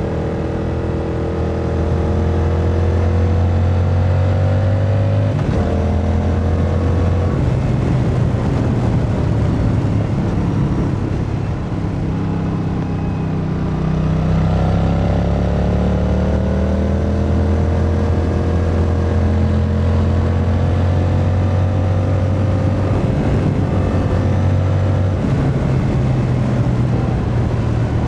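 Yamaha MT-07's 689 cc parallel-twin engine, in A2-restricted form, pulling under load at speed, its pitch climbing as it accelerates and falling abruptly a few times, around 5 and 7 seconds in. It eases off around 12 seconds and builds again from about 14 seconds, with steady wind noise underneath.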